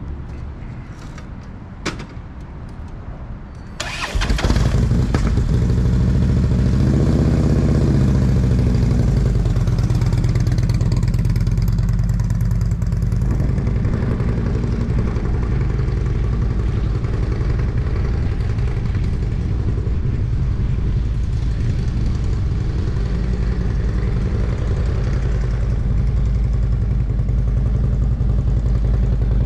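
Motorcycle engine started about four seconds in after a couple of clicks, revved briefly, then running steadily.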